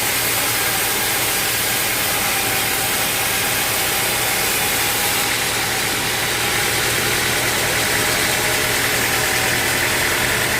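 Sawmill machinery running steadily: an even engine hum with a dense, unchanging noise over it.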